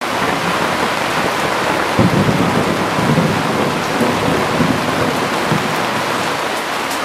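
Heavy downpour: a loud, steady hiss of rain falling, with low rumbles between about two and five and a half seconds in.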